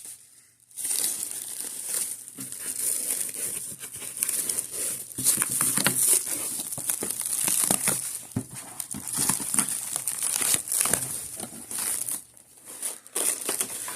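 Packaging crinkling and rustling as a VCR/DVD combo player is pulled out of its box, in irregular crackles with short lulls near the start and about twelve seconds in.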